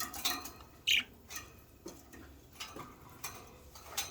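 Budgerigars in a cage: scattered clicks and taps of beaks pecking at food and a mirror, with one short falling chirp about a second in.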